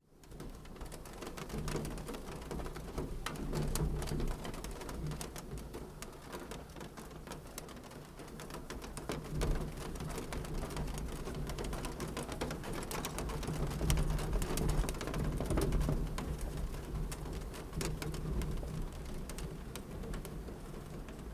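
Fire crackling in a fireplace: a dense run of small pops and snaps over a low, steady rumble of flames.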